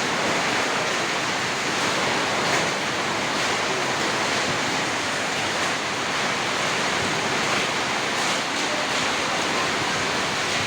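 Heavy rain pouring down in a hailstorm with strong wind, a steady, dense rushing noise.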